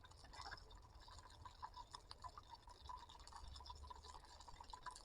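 Near silence with faint, irregular small ticks and crackles, like candle wax sputtering as it melts in a tin over a camping gas stove.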